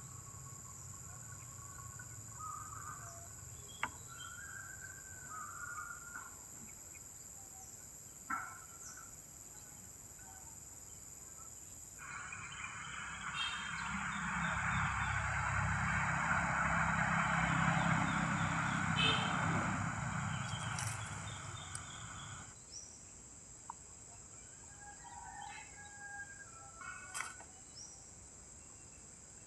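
Outdoor ambience of scattered short bird chirps over a steady high hiss. About twelve seconds in, a broad rushing noise swells up, holds for about ten seconds and fades away.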